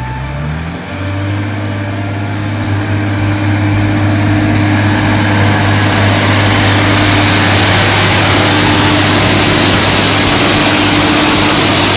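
A vehicle engine running at a steady pitch under a loud rushing noise that builds over the first few seconds and then holds steady.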